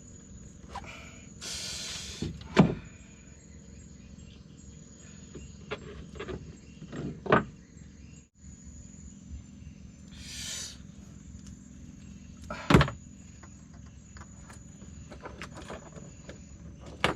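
Handling noises in a small fishing boat: three sharp knocks and two brief hissing rustles, one near the start and one past the middle, over a steady high chirring of night insects.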